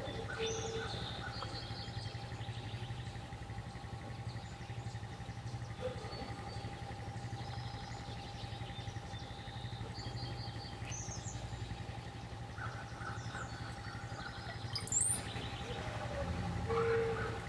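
Brown-headed cowbirds calling: scattered short whistles and chatters, with a few very high thin whistles about fifteen seconds in. Under the birds runs a steady low hum with a faint constant tone.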